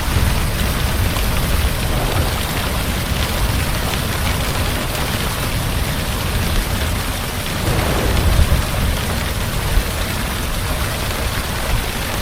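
Heavy rain falling steadily, with a low rumble of thunder swelling about two-thirds of the way through.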